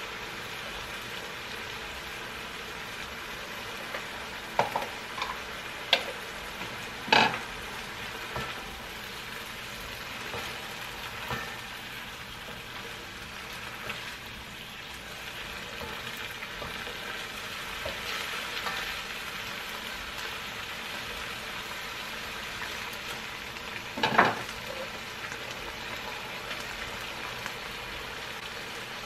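Chicken and pineapple chunks sizzling in their juices in a non-stick wok, stirred with a plastic slotted spatula. A few sharp knocks of a utensil against the pan stand out, several about a quarter of the way in and the loudest about four-fifths through.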